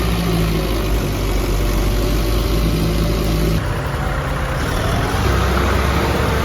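Tractor diesel engines running steadily, with an abrupt change in the sound about three and a half seconds in.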